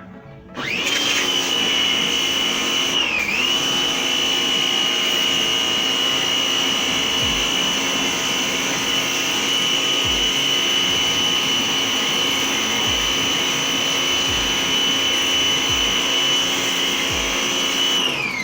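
Tecna electric pressure washer running: its motor starts with a rising whine, holds a steady high whine with a brief dip in pitch about three seconds in, then is switched off near the end and winds down in falling pitch.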